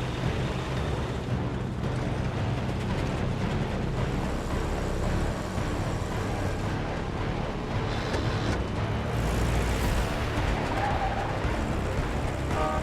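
Truck engine running in a film soundtrack, mixed under orchestral score music, with a deeper rumble swelling about nine seconds in.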